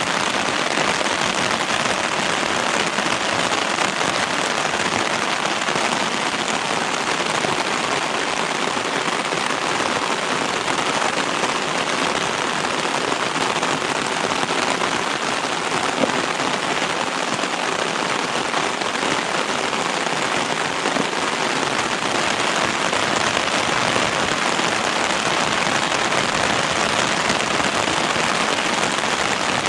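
Heavy rain pounding on a large sun umbrella overhead, heard from underneath it: a steady, dense patter that does not let up.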